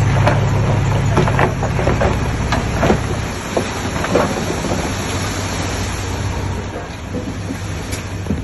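Heavy earthmoving machine's diesel engine running, with scattered clattering and rattling of rock and debris. The deep engine hum drops away about three seconds in, leaving the clatter over a rough rumble.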